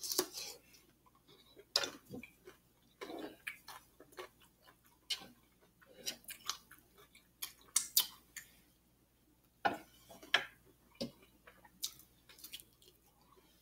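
A person chewing and lip-smacking close to the microphone while eating cucumber and rice, with irregular wet clicks and short crunchy bursts.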